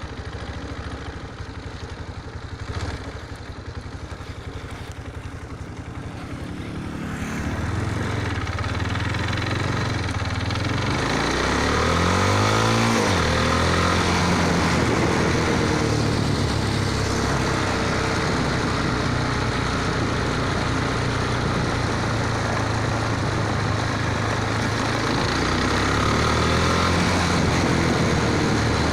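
Motorcycle engine running, growing louder about a quarter of the way in, with the engine note sweeping up and back down near the middle.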